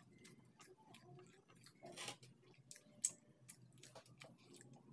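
Quiet, close-up eating sounds: chewing and small wet mouth clicks from a mouthful of instant-noodle chow mein. There is a short rustle about two seconds in and a sharper click about three seconds in.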